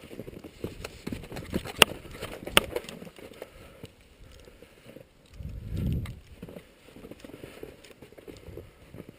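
Footsteps crunching irregularly through snow and undergrowth, with two sharp cracks a little under a second apart early on and a brief low rumble of wind or handling on the microphone about halfway through.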